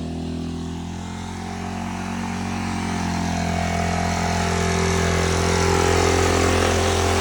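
Custom lawnmower's engine running steadily, getting louder from about two seconds in.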